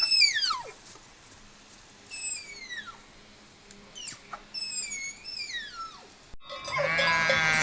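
Tapir calling: a series of thin, high-pitched whistles, each falling steeply in pitch. Near the end they give way abruptly to a louder, lower bleating call.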